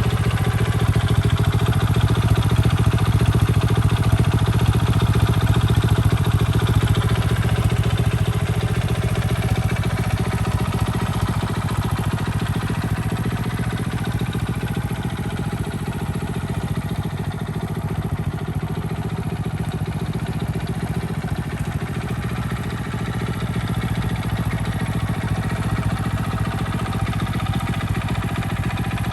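Honda Little Cub's small single-cylinder four-stroke engine idling steadily, a little louder during the first third.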